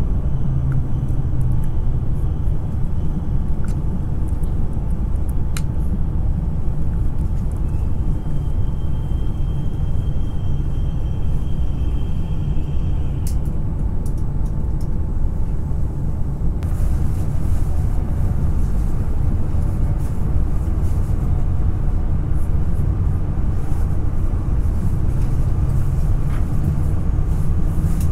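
Cabin noise inside a Hokkaido Shinkansen train pulling away from a station: a steady low rumble from the running gear and traction equipment, with a few faint clicks. A brighter hiss comes in about two-thirds of the way through as the train gathers speed.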